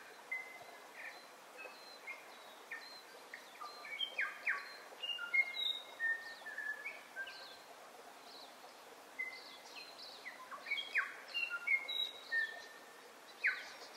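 Several birds chirping and whistling: short overlapping calls, some held level and some sweeping down, several a second, over a steady background hiss.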